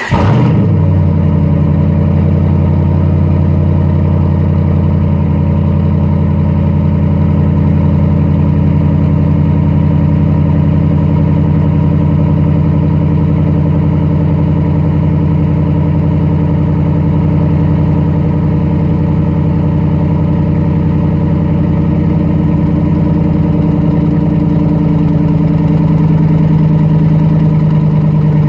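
The 2011 Ram 1500's 5.7-litre HEMI V8, straight-piped with the muffler deleted, catches on a cold start and settles into a loud, steady idle.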